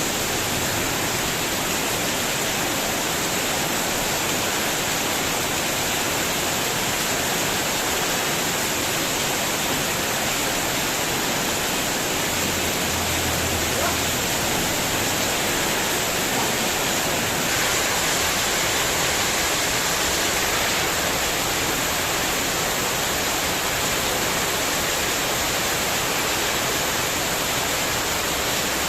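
Heavy rain with wind pouring steadily onto a spandek metal roof sheet, a dense unbroken hiss that swells slightly a little past halfway.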